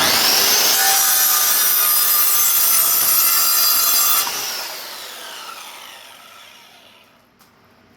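Electric power saw switched on and cutting a 2x4 for a shelf support arm, its motor whining up to speed. It is switched off about four seconds in, and the whine falls away as the blade spins down.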